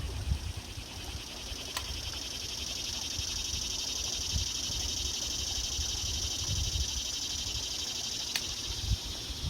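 A high, steady insect buzz that swells in about half a second in, holds for about eight seconds and dies away near the end, over a low rumble.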